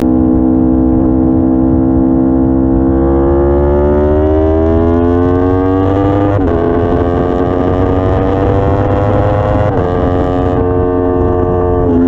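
Aprilia RSV4's V4 engine running at raised revs. The revs climb slowly, then fall back abruptly, twice. The owner suspects a misfire that appeared after new spark plugs and a valve check.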